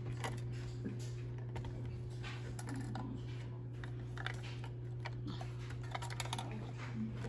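Irregular light clicks and taps of a scale model garbage truck being handled and its parts worked, over a steady low hum.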